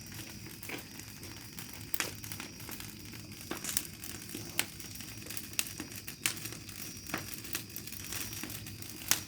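Campfire crackling, with sharp pops at irregular intervals over a steady low hiss.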